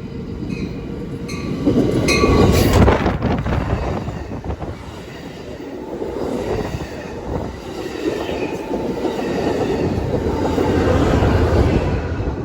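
Train passing close by, its wheels running on the rails. It is loudest about two to three seconds in and builds again near the end.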